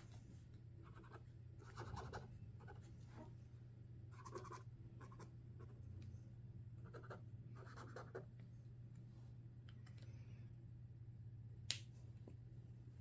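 Sharpie Creative Marker tips drawing on paper: short, faint scratchy strokes in several bursts, over a steady low hum. One sharp click comes near the end.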